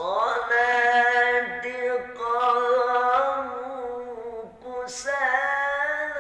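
A single voice reciting the Quran in the melodic tilawah style, holding long ornamented notes with wavering pitch turns, in three phrases with short breaks between them.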